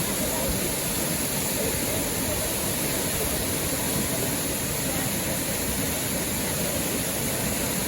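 Steady rushing of a river waterfall, an even, unbroken noise of falling water.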